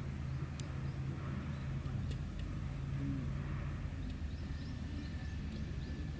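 A distant engine drones steadily and fades after about four seconds, over low outdoor rumble. Faint short high chirps come near the end.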